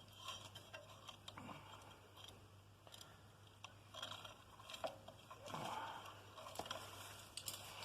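Faint scattered clicks and light scraping from small parts being handled, over a faint steady low hum. The engine is not running.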